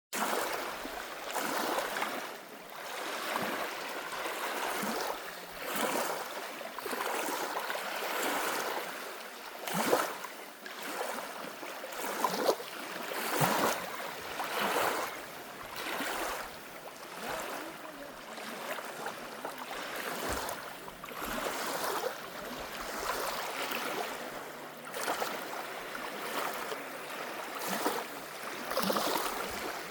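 Small lake waves lapping and splashing at the water's edge, in irregular slaps every second or so, a few sharper splashes standing out.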